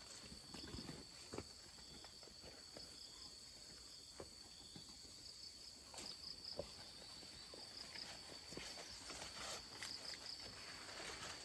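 Quiet rural ambience: a steady high-pitched insect drone, with faint scattered clicks and light rustling.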